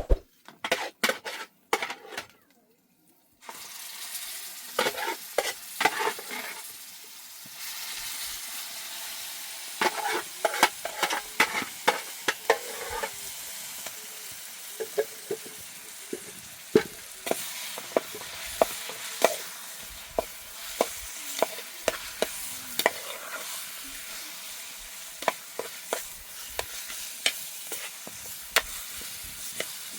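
Food frying in a pan with a steady sizzle, while a utensil stirs it and clicks and scrapes against the pan many times. It starts after a few knocks and a short break about three seconds in.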